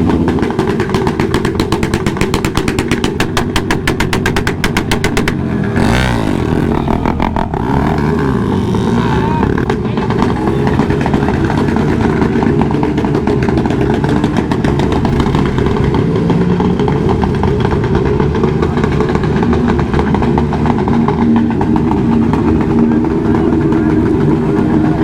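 Motorcycle engines running loud, with revs rising and falling. A rapid, even firing rattle runs through the first five seconds or so.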